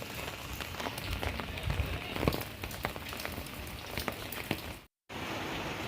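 Steady rain falling, with many sharp drops striking close by. The sound drops out completely for a moment near the end, then the rain goes on as a steadier hiss.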